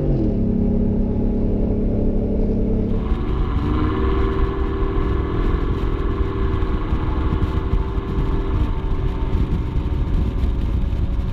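Ford F-150's 5.0L V8 running through a Borla Stinger S-Type stainless cat-back exhaust. The engine note drops at the start, then about three seconds in it climbs and holds a steady higher pitch for several seconds before easing back near the end.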